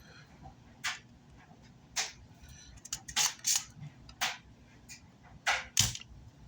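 About nine sharp clicks and taps, irregularly spaced, a few with a dull knock: small tools and parts being handled on a repair workbench.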